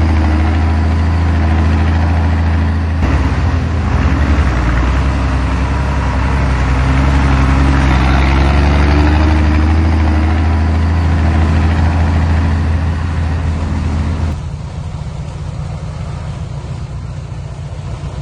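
Heavy diesel engine of earthmoving equipment running steadily with a strong low drone. About fourteen seconds in it drops suddenly to a quieter idle.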